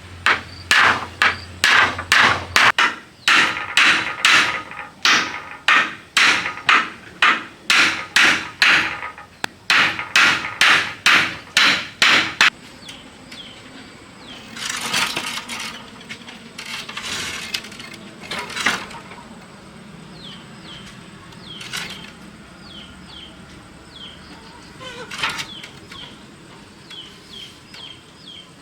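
Steady hammering, about two to three blows a second, stopping abruptly a little under halfway through. Afterward come a few brief scraping or rustling sounds, with faint short chirps repeating behind them.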